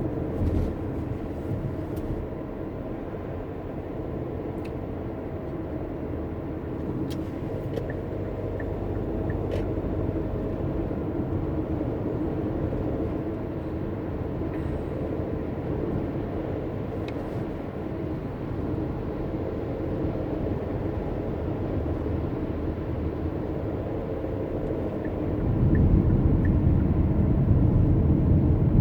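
Car driving: steady engine and tyre road noise, a low rumble with a few faint clicks, which grows louder about 25 seconds in.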